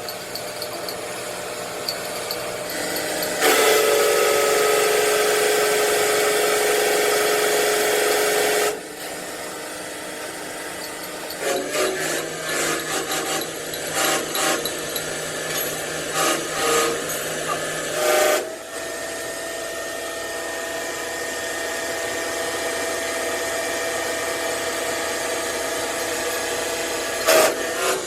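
Workshop power tool running: a loud steady run of about five seconds, then a string of short bursts, then a quieter steady run.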